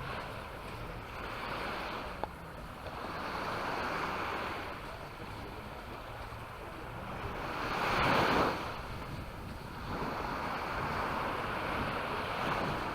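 Sea waves breaking and washing up the shore in slow swells every few seconds, the loudest about eight seconds in.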